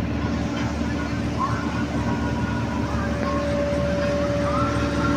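Parasailing tow boat's engine running steadily, a continuous low hum, with a higher steady tone joining about three seconds in.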